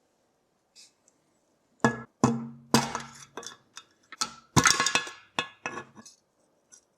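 Hard metal parts clinking and knocking together, a string of sharp strikes with a brief ringing tone after some of them. They come in two clusters, about two seconds in and again about four and a half seconds in.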